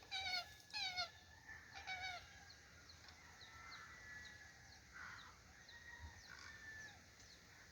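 Birds calling: a few short calls that drop in pitch in the first two seconds, then fainter scattered chirps.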